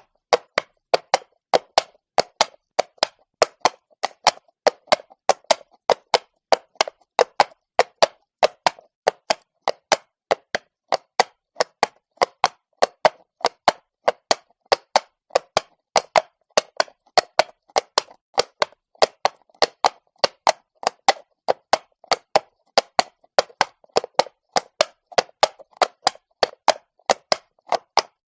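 Horse hooves clopping on cobblestones at a steady walk, sharp hard knocks in an even repeating rhythm of about three to four a second.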